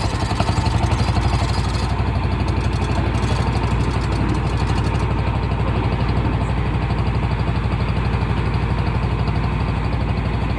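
Small ferry's engine running steadily, a low even throb.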